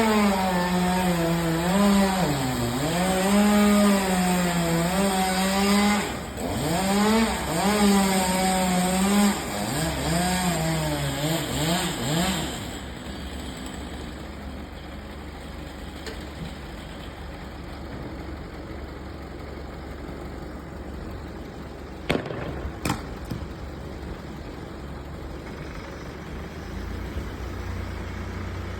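Chainsaw cutting wood for about the first twelve seconds, its engine pitch repeatedly dropping under load and recovering. It then falls back to a steady low idle, with two sharp clicks a little after twenty seconds.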